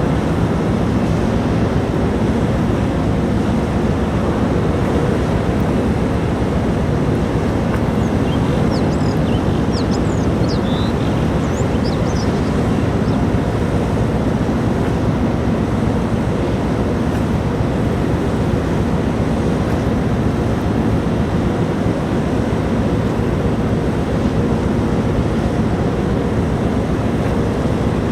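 Steady low rumble of a large ferry's engines, with wind and water noise over it and no change in pace.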